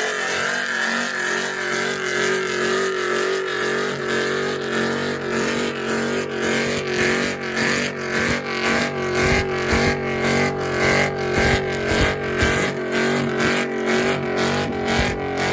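Car engine held at high revs, steady in pitch, with a regular stuttering cut-out that gets more frequent from about halfway through, like bouncing off the rev limiter.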